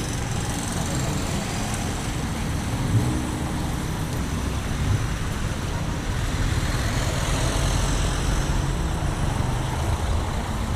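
Street traffic noise: motor vehicles running and passing along a busy street, a steady low rumble that swells a little as one comes closer about two-thirds of the way through.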